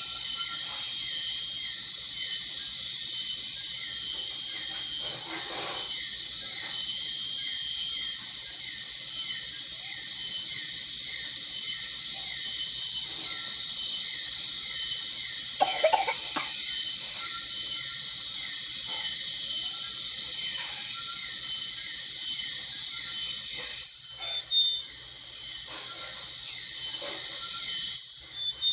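Steady, dense, high-pitched insect chorus with held shrill tones and a fast run of short repeated chirps underneath. There are a couple of brief rustling or knocking noises along the way, and sharp loud clicks near the end.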